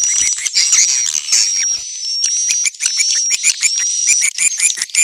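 Swiftlet lure recording: dense twittering of swiftlets, a rapid chatter of chirps about five a second under repeated short, high, thin whistled notes. It is the call played at swiftlet nest houses to draw the birds in.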